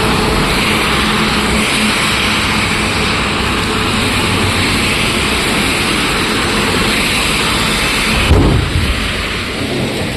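Steady loud noise of heavy rain mixed with passing vehicle traffic, with a sudden low thump and rumble a little after eight seconds in, after which it is quieter.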